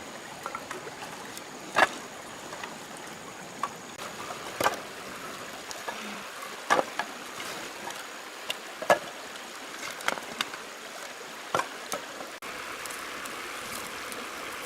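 Stream water running steadily, with sharp knocks or splashes every second or two at irregular intervals.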